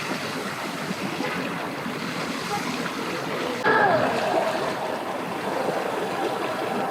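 Steady rushing wash of water and wind with boat motors running. About three and a half seconds in it gets louder, and a short high tone comes in, followed by a falling tone.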